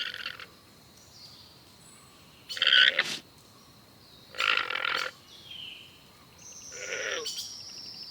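Llama calling three times, short calls each under a second, about two seconds apart.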